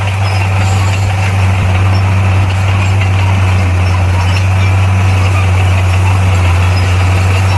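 Bulldozer's diesel engine running steadily with an even, deep drone that holds without change.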